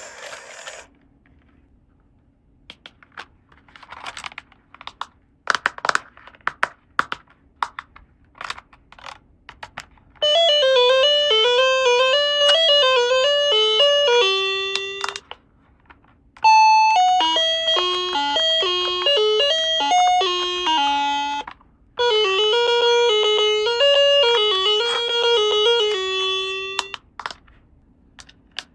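A toy's electronic sound chip plays a short tinkly chime tune three times, each run about five seconds long. Scattered small clicks and taps come before the first run.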